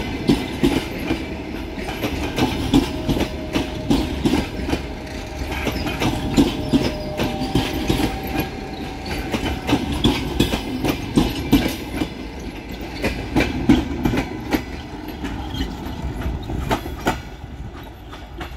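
Passenger coaches rolling past, their wheels clacking over rail joints in a quick, steady rhythm over a running rumble. The clacking thins and fades near the end as the last car moves away.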